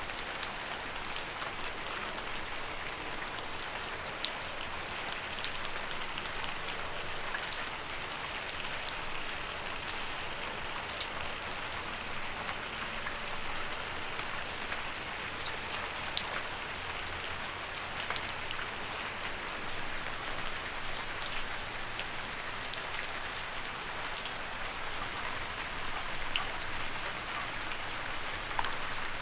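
Steady rain falling, with a constant hiss and many sharp individual drops pattering on a surface.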